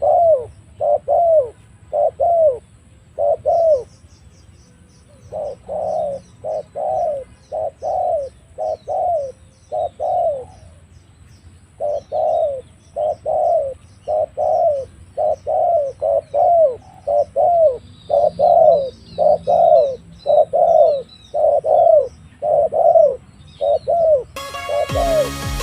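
Spotted doves (tekukur) cooing: a long series of short coos at roughly two a second, in runs broken by brief pauses, with small birds chirping faintly. Music cuts in near the end.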